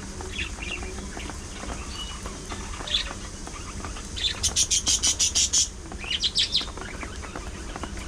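Budgerigars chirping and chattering, with a fast run of sharp, high chirps about four seconds in and a shorter run soon after, over a steady low hum.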